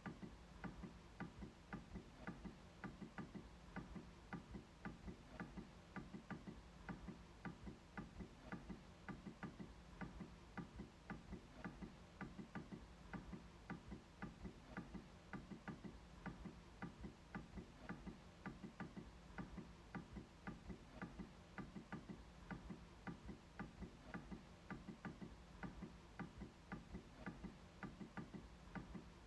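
MacBook trackpad being clicked over and over: faint, small, evenly spaced clicks, a few a second, keeping a steady rhythm.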